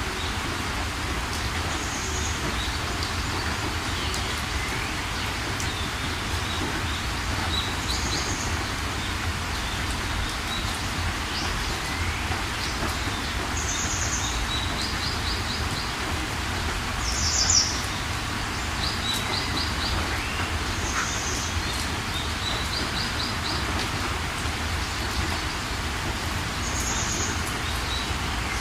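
Steady rain with birds chirping over it. Short high calls and quick trills come every few seconds; one call about two-thirds of the way through is louder than the rest.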